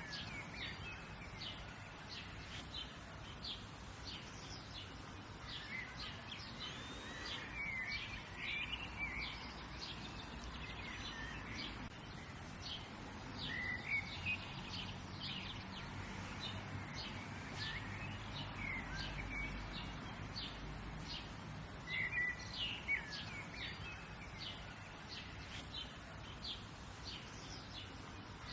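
Several birds chirping and calling, with quick repeated chirps and short warbled phrases, over a steady low background hiss.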